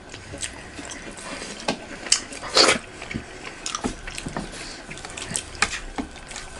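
Two people eating maida dhindo and fish curry by hand: wet chewing and lip-smacking with irregular short clicks, a few sharper smacks standing out.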